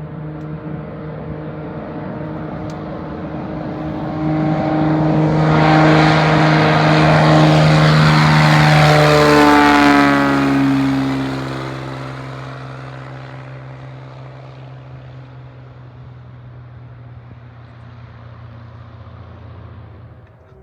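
Propeller airplane passing close by: its engine and propeller drone grows loud, drops in pitch as it goes past about ten seconds in, then fades away.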